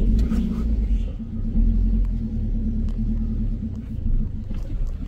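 Car engine running at low speed, a steady low hum with rumble.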